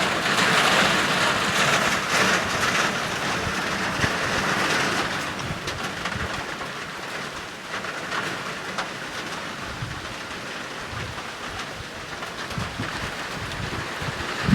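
Heavy rain falling, a steady hiss that is strongest for the first few seconds and then eases a little.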